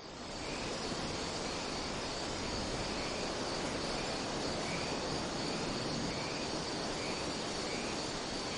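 Cloud-forest ambience: a steady chorus of insects with a high drone, and a faint chirp repeating a little more than once a second.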